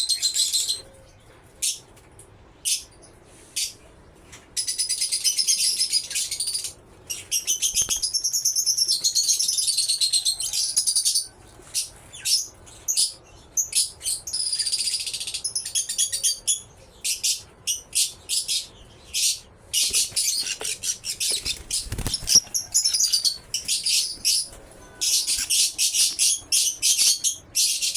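Fischer's lovebirds chattering in long runs of rapid, high-pitched chirps and warbles, broken by short pauses. A single low knock comes about two-thirds of the way through.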